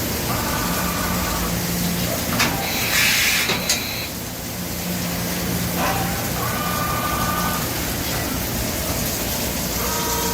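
Doosan Puma MX1600ST CNC turning and milling center running a short program: a steady machine hum, with whining tones starting and stopping as the axes make short moves. About two and a half seconds in there is a brief hiss that begins and ends with a sharp click.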